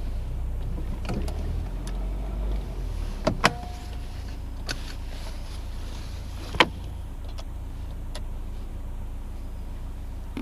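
Steady low rumble of a Citroen DS heard from inside, with a few sharp clicks and knocks. The loudest come about three and a half and six and a half seconds in.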